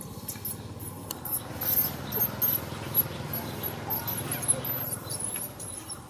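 Monkeys calling with thin, high, wavering squeaks from about two seconds in, over light rustling and clicks.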